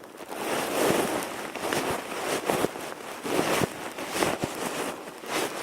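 Small kindling fire of birch bark and thin twigs catching in a teepee lay, giving irregular crackles and pops over a steady hiss.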